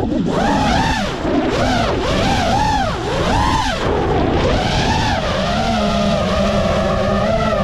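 Five-inch FPV quadcopter's brushless motors and propellers whining, the pitch swooping up and down again and again with the throttle, then holding steadier for the last couple of seconds.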